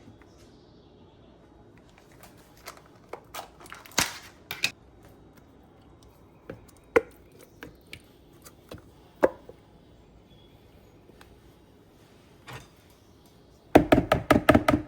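Kitchen utensils knocking and clicking against dishes during food preparation. The sharp knocks are scattered, then a quick run of about a dozen louder knocks comes near the end.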